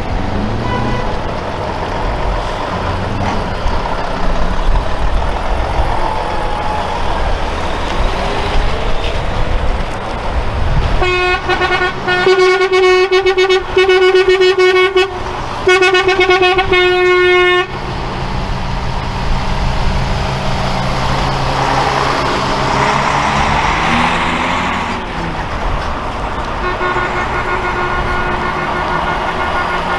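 Trucks driving past with their engines running. Midway, a truck air horn is blown in several loud, long blasts lasting about six seconds in all. A fainter horn sounds near the end.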